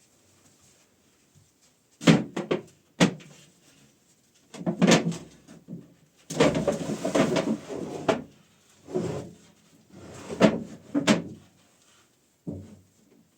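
Irregular knocks and scrapes of wooden pieces being handled and set down: about half a dozen sharp knocks, with a longer rough scrape about six to eight seconds in.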